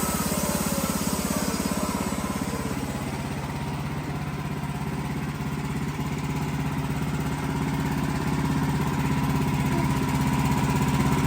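Wood-Mizer LX55 sawmill's engine running steadily, dipping slightly in loudness about a third of the way in and then slowly rising again.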